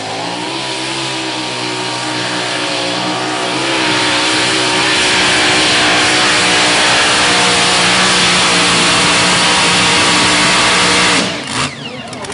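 Mini unlimited pulling tractor's engine under full power during a pull, climbing in pitch at first, then louder and steady, before cutting off abruptly near the end.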